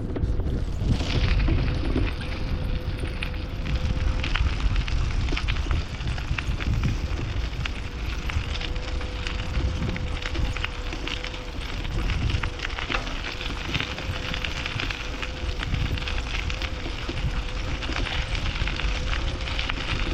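Wind buffeting the microphone and tyre noise from a bicycle being ridden, with a steady hum and many small crackles running through it.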